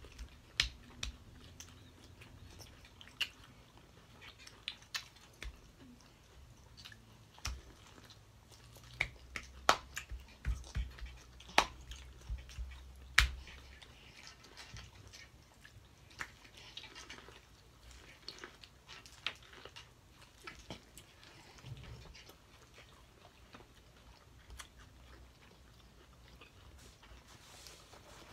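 Close-up eating sounds of someone biting and chewing corn on the cob: irregular wet smacks and sharp mouth clicks, busiest and loudest in the middle stretch.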